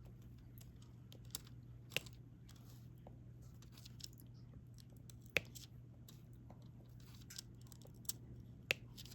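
Faint scattered clicks and taps of a diamond-painting stylus picking up small resin drills and pressing them onto the adhesive canvas, with three sharper clicks standing out, over a low steady hum.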